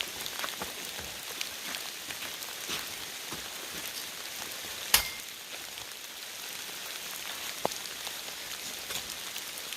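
Pouring rain falling steadily, with many small drop hits. About halfway through there is one sharp loud click.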